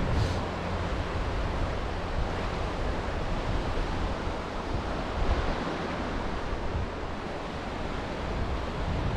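Sea waves washing on the shore as a steady surf noise, with wind buffeting the microphone in uneven low rumbles.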